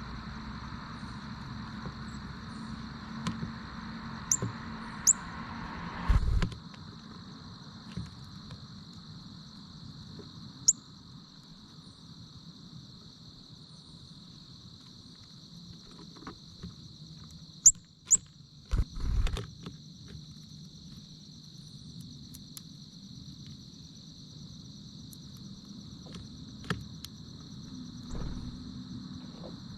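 Steady high-pitched chorus of crickets or other insects. Scattered short, high bird chirps sound over it. A low rumble of traffic stops about six seconds in, and there are two dull thumps, one about six seconds in and a louder one near nineteen seconds.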